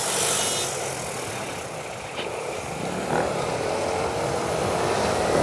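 Yamaha Mio Soul i 125 scooter's single-cylinder engine running on the move, under steady wind noise on the helmet-mounted camera's mic, with the engine note rising in pitch near the end.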